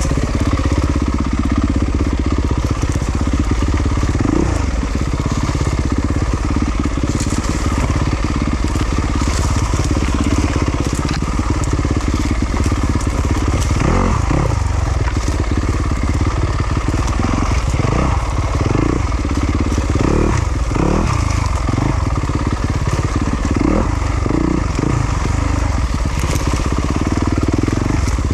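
Yamaha YZ250FX four-stroke single-cylinder dirt bike engine running under varying throttle. In the second half it revs up and down again and again, about once a second, with scattered clicks and knocks.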